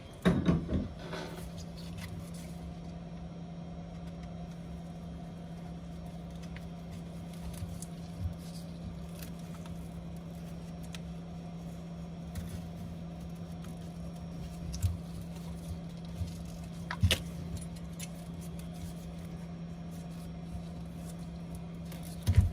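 A steady low electric hum that starts with a click just after the beginning, with a few small taps and clicks scattered through it.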